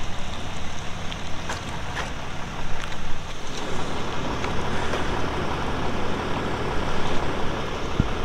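A motor vehicle engine running steadily under a constant rushing noise, which grows a little louder partway through, with a few faint clicks.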